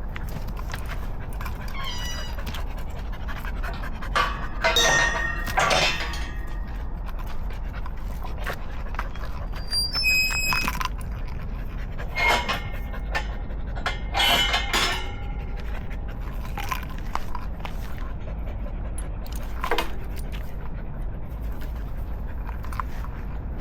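A dog panting on a walk, with several louder bursts of breath over a steady low rumble.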